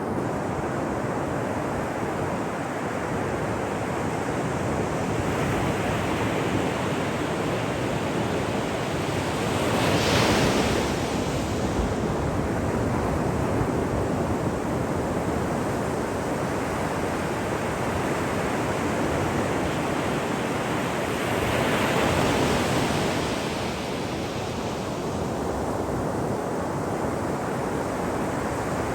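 Ocean surf washing steadily onto a shore, with two bigger waves breaking and swelling louder, about a third of the way in and again about three-quarters through.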